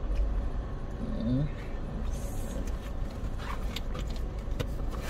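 Car engine idling with a steady low rumble, heard from inside the cabin, with a brief faint voice about a second in and a few light clicks later on.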